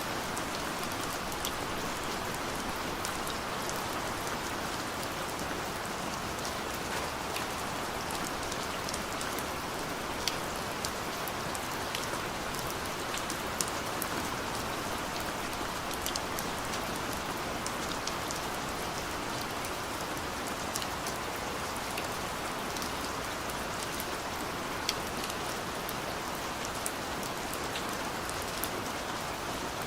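Heavy rain pouring steadily, with many sharp drip ticks scattered through it.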